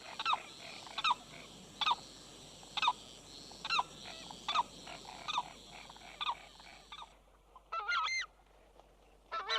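Limpkin calling: a regular series of short wailing cries, a little more than one a second. About seven seconds in they give way to bursts of harsh, honking calls from southern screamers.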